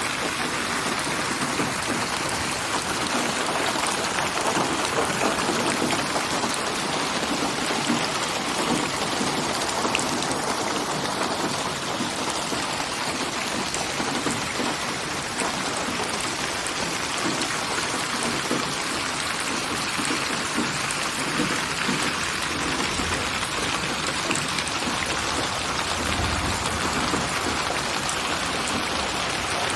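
Steady rain, a dense patter of drops on surfaces, in a produced rain ambience panned around the listener in 8D binaural style. A low rumble rises under it near the end.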